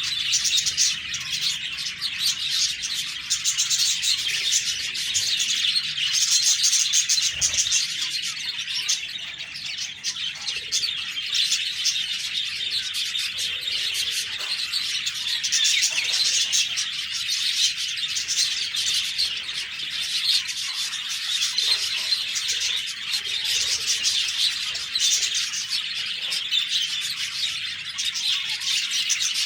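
Several budgerigars chirping and chattering continuously, many high chirps overlapping with no pause.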